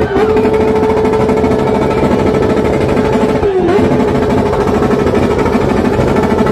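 Motorcycle engine revved hard and held at a steady high pitch, its revs dipping briefly and recovering about halfway through.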